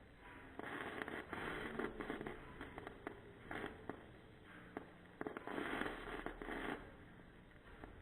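Small indoor firework burning, fizzing and crackling in uneven bursts with scattered sharp pops.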